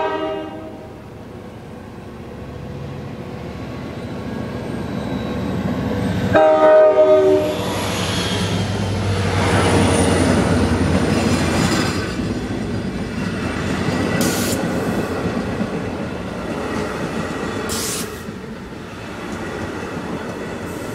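A Long Island Rail Road DE30AC diesel locomotive sounds its chord horn: the tail of one blast right at the start, then a second blast about six seconds in. The train then passes close by, its locomotive and C3 bilevel coaches making a loud rumble and clatter of wheels on rail that swells and then slowly eases.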